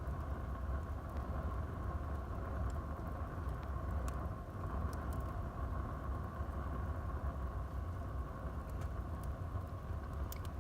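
Wood fire burning in a fireplace: a steady low rumble of the flames with a few sharp crackles and pops scattered through.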